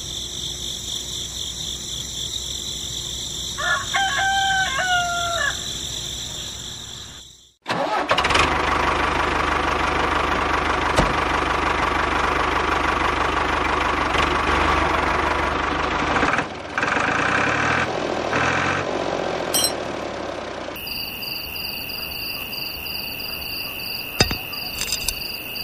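A rooster crows once over a steady high-pitched drone. After a sudden cut, the small motor of a home-made model tractor and chaff cutter runs with a dense whirring rattle for about eight seconds, changes its note, and gives way to a steady high drone again.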